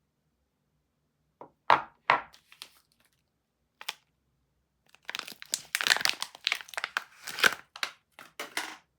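Soap packaging being handled and opened: a few sharp crinkles, then a longer run of crumpling and tearing of the wrapper from about halfway through.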